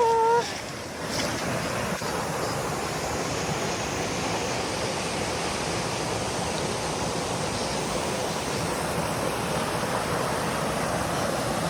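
Steady rush of water running over rocks in a mountain stream, with a short rising voice-like call right at the start.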